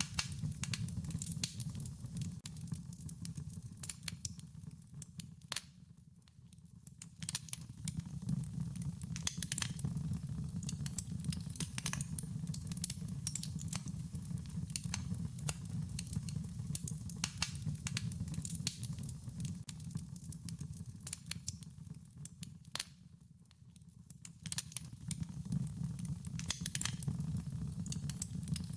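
Wood fire crackling: frequent sharp pops and snaps over a steady low rumble of flames, dipping quieter twice for a moment.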